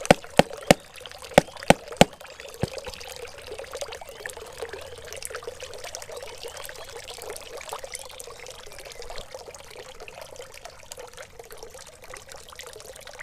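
Water pouring and trickling steadily. About seven sharp clicks come in the first two and a half seconds.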